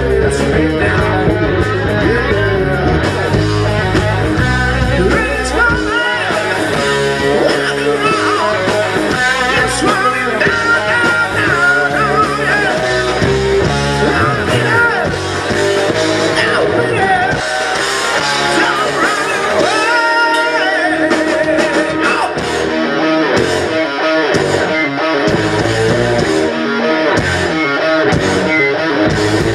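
Live rock band playing: electric guitar and singing over a full band. The deep low end drops away about six seconds in, is nearly gone around twenty seconds, and comes back near the end.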